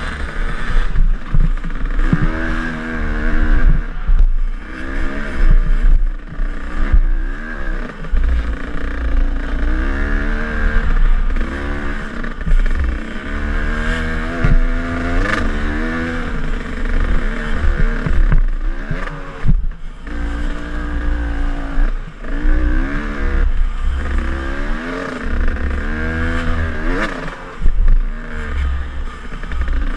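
KTM enduro dirt bike engine revving up and down again and again while riding a trail, with the pitch climbing and dropping every second or two. Low thumps and rumble run underneath, with scraping and clatter.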